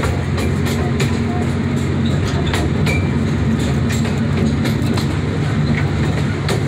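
Small park train rolling along, heard from an open-sided passenger car: a steady low drone with irregular clicks and rattles from the running gear.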